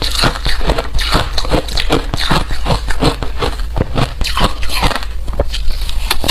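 Hard ice being bitten and crunched between the teeth, close up: a fast, irregular run of sharp cracks and crunches, several a second, with no pauses.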